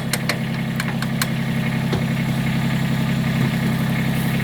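Kubota tractor's diesel engine idling steadily, with a few sharp clicks in the first second or so.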